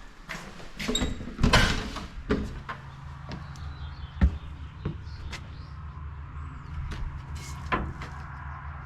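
Cupboard doors and drawers being opened and shut: a run of knocks and clatters, loudest about a second and a half in, with a single sharp knock around four seconds in and lighter clicks after, over a steady low hum.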